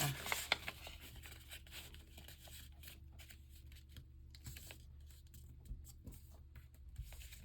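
A sheet of paper being folded and creased by hand: soft, irregular rustles and scratchy rubs, over a faint steady low hum.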